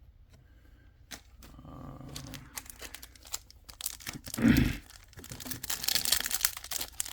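Foil booster pack wrapper crinkling and being torn open, with scattered clicks, a single thump about four and a half seconds in, and the crinkling growing dense and loud in the last second or two.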